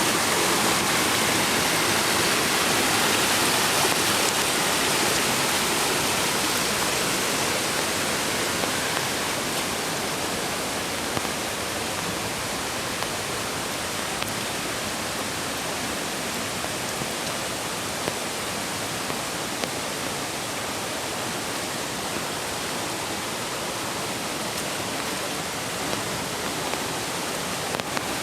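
Mountain creek water rushing steadily, easing slightly about ten seconds in, with a few faint ticks scattered through the later part.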